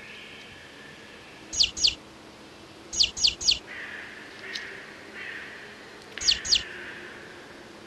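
A bird chirping: quick, sharp, falling chirps in short groups of two, then three, then two.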